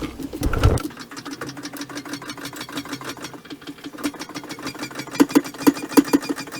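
Clarke Strongarm CML3 motorcycle lift table's foot-operated hydraulic pump being pumped to raise the table: a quick, even run of mechanical clicks, with stronger strokes about three a second near the end.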